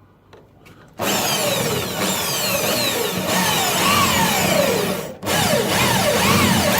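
Electric drill with a spot weld drill bit cutting out a spot weld in car body steel, starting about a second in, the bit squealing with a pitch that keeps sliding down and up. It stops briefly a little after five seconds, then drills on.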